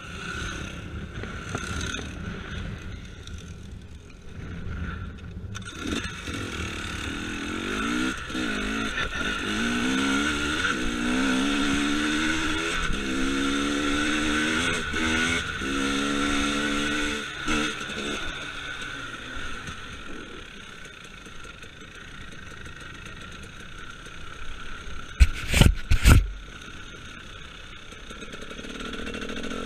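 KTM enduro motorcycle engine heard from the handlebars, pulling up through several gears: the pitch rises, dips at each shift and climbs again, then settles to steadier running. A few loud knocks come close together near the end.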